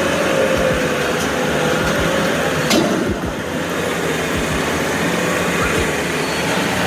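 Heavy transport vehicles running, a steady mechanical noise with a faint wavering whine and a single sharp click about three seconds in.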